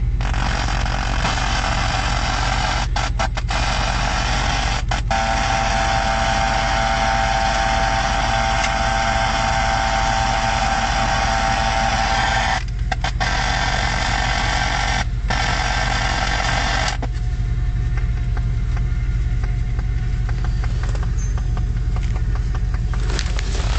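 A car engine idling steadily under a loud hiss. The hiss cuts out briefly a few times and drops away about 17 seconds in.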